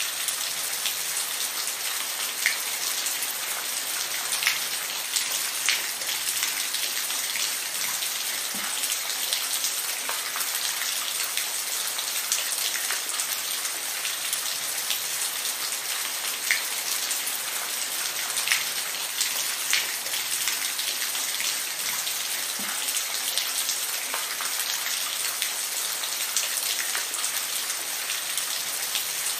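Steady rain falling, a constant hiss with scattered individual drops striking a surface.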